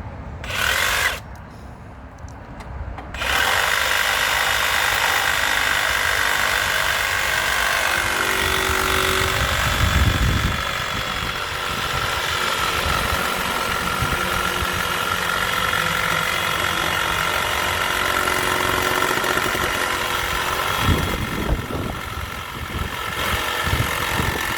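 Electric power saw cutting into the glued timber of a wooden gate: a short burst under a second in, then running steadily under load from about three seconds in.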